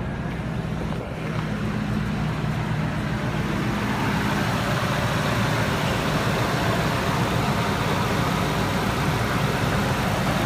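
Supercharged 5.4-litre V8 of a 2000 Ford SVT Lightning pickup idling steadily just after starting, getting louder a few seconds in; it sounds normal and strong.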